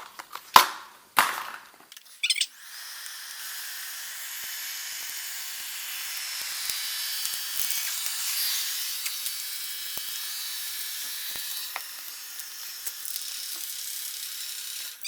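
A few knocks, then a Xiaomi robot vacuum cleaning, its fan and brushes giving a steady high whir that stops abruptly at the end.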